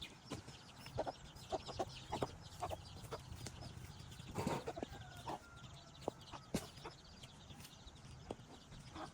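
Chickens clucking in short, scattered calls, with a louder burst of sound about halfway through.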